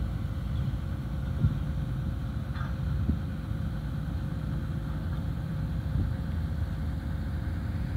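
Heavy diesel engine of a Sany SR150C rotary drilling rig running steadily with a low rumble, with a few short knocks.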